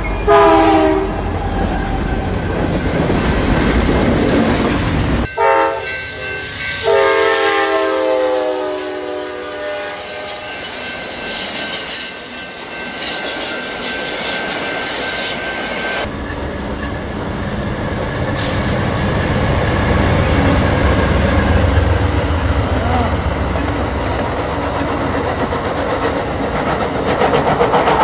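Train sounds: a multi-note locomotive air horn ends about a second in and blows again for about five seconds a little later. Then comes a passing train's rumble and wheel clatter, with a brief high wheel squeal, the rumble growing louder in the second half.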